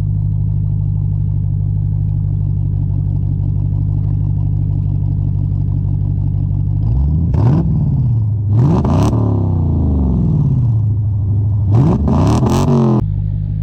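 Dodge Challenger engine idling through a loud, deep exhaust with the mid-mufflers and X-pipe cut out, straight-piped to hollow axle-back mufflers, then revved three times in the second half, the pitch rising and falling each time.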